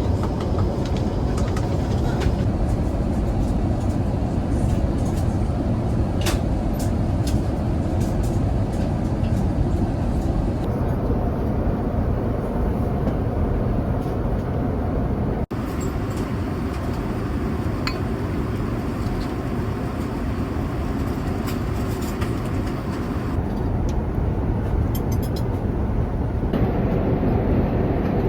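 Airliner cabin noise inside an Airbus A350-1000: the steady rumble and rush of the engines and airflow in flight, with a few light clinks now and then.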